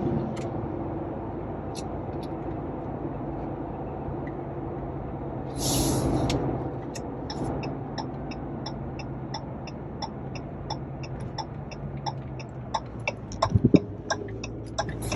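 Steady engine and road noise inside the cab of a 2021 Ram 1500 TRX pickup on the move, its supercharged 6.2-litre V8 running. There is a short hiss about six seconds in, then a fast run of light ticks through the second half, with a few louder knocks near the end.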